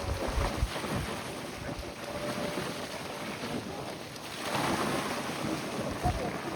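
Wind buffeting the microphone over the wash of choppy harbour water, with a swell of water noise about four and a half seconds in.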